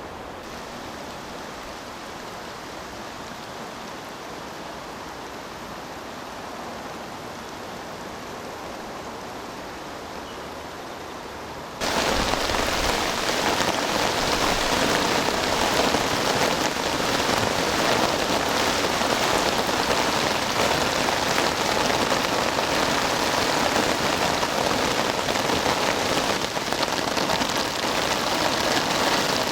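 Typhoon rain falling steadily. About twelve seconds in it jumps suddenly to a much louder, heavier downpour.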